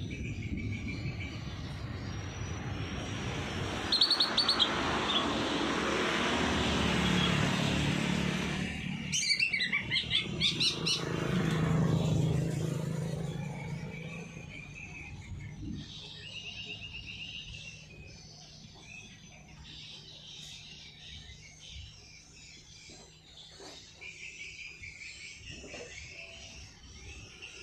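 Small songbirds chirping and trilling in short high bursts. A broad rushing noise swells up over the first dozen seconds and fades away.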